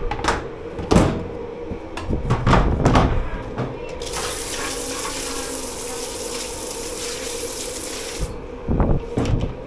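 Dishes clattering in a commercial dish-pit sink, then water spraying steadily into the sink for about four seconds before cutting off, followed by more clatter near the end. A steady machine hum runs underneath.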